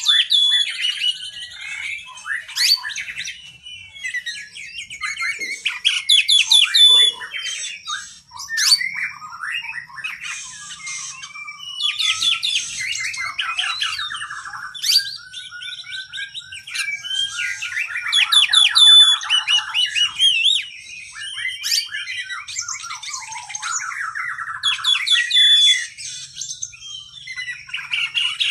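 Oriental magpie-robin (kacer) singing a long, varied song of fast whistles, trills and chirps, with short pauses between phrases.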